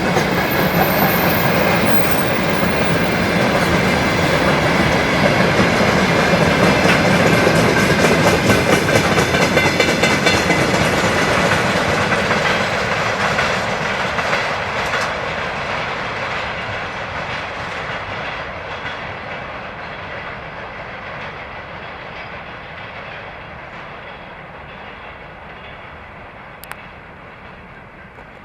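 Freight train wagons rolling past with rhythmic clickety-clack of wheels over the rail joints, loudest about eight seconds in, then fading away steadily as the train recedes. A single sharp click near the end.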